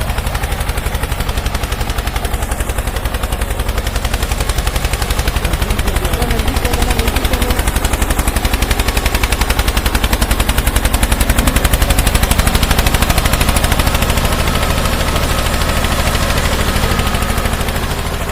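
Tractor diesel engine running steadily with a fast, even chugging of exhaust beats, getting a little louder midway.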